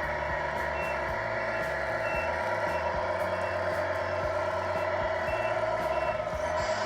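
Sound unit of a radio-controlled Tamiya King Hauler truck playing a steady diesel-engine hum with reversing beeps, about two short beeps a second, which signal that the truck is backing up.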